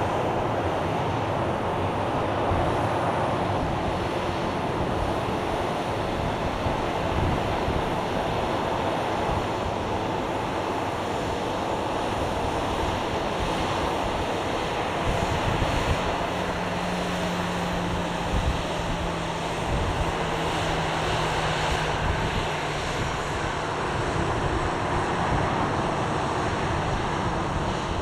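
Airliner jet engine noise, a steady broad rumble with a faint high whine that slowly falls in pitch, mixed with wind on the microphone.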